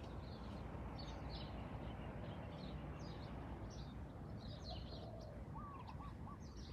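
Faint outdoor ambience: small birds chirping on and off over a steady low background rumble.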